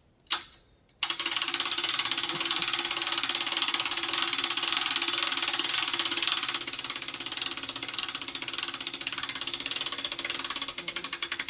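A winch winding in cable: a steady motor whine under a fast, continuous clicking rattle of gears, starting about a second in and running for about ten seconds before stopping. A single click comes just before it starts.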